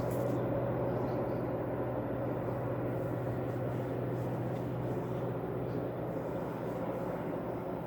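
A steady, unexplained low droning hum with a strong deep tone and fainter higher tones above it, fading slightly toward the end. The person recording suspects high-tech military aircraft.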